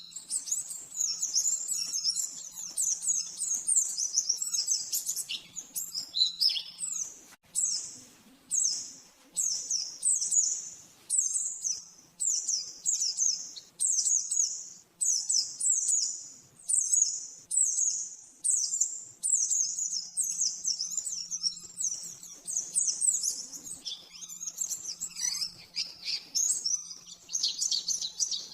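White-eye (pleci) singing a fast, high twittering song. Through the middle it comes in short repeated phrases about one a second, and at the start and near the end it runs into an unbroken tangle of twitter.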